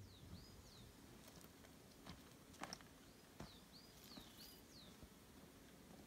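Faint bird song over near silence: a bird repeating a short whistled note that rises and falls, in two runs about three seconds apart. There are a few faint clicks in between.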